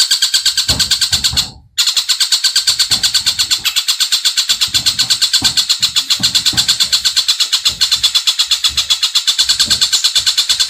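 Bird song from the cililin and tengkek buto recordings: a fast, even trill of repeated high notes at about ten a second, with a brief cut-out about a second and a half in.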